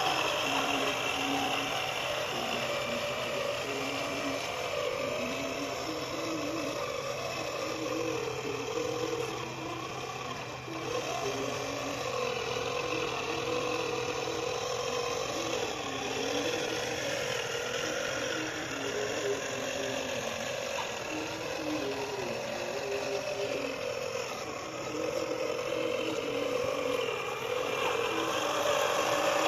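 Geared electric motor of a homemade RC tractor running with a whirring whine, its pitch rising and falling as the load and speed change.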